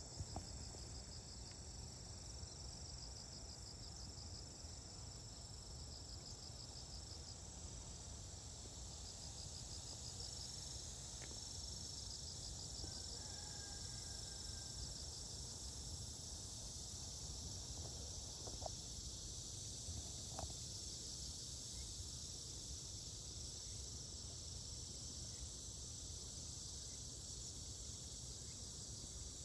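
Steady high-pitched chorus of insects singing, with rapid pulsed trills repeating in the first half, over a low rumble.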